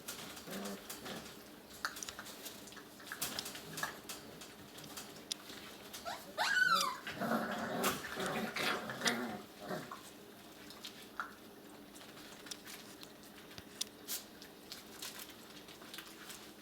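Six-week-old puppies play-fighting: a high yelp about six seconds in that falls in pitch, followed by a few seconds of puppy growling, with scattered small clicks and taps throughout.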